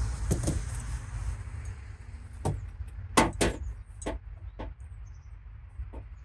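Several short knocks and clunks at uneven intervals, the loudest two close together a little past three seconds in, from something being handled and moved aside, over a steady low hum.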